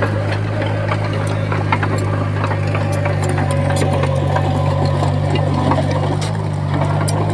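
Komatsu bulldozer's diesel engine running steadily, with scattered metallic clicks and clanks over it.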